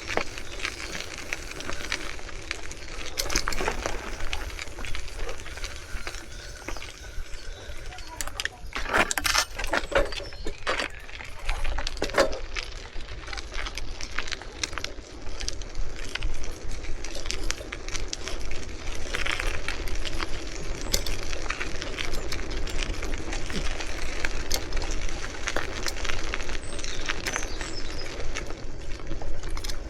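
Riding a bicycle: steady wind and tyre rumble with frequent rattles and clinks from the bike, busiest around nine to twelve seconds in.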